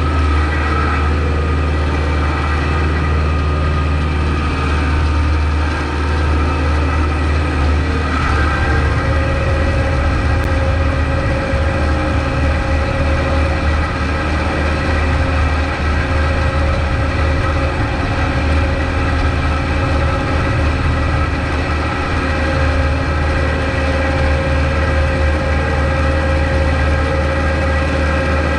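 Kubota MX5200 tractor's diesel engine running steadily. A steady higher tone becomes clearer about nine seconds in.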